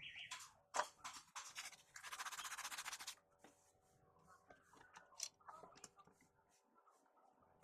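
Faint scratching and clicking with a sharp click just under a second in, and a steady rasping stretch of about a second starting about two seconds in.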